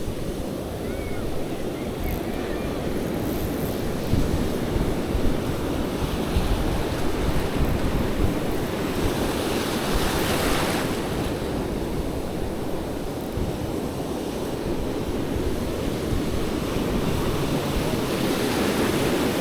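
Ocean surf breaking and washing up the beach, with wind buffeting the microphone. A wave washes in more loudly about halfway through.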